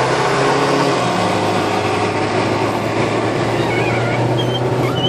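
Land Rover Freelander 2's 2.2-litre turbodiesel under hard acceleration, heard inside the cabin: a steady engine drone over road and wind noise, its pitch stepping down slightly about a second in.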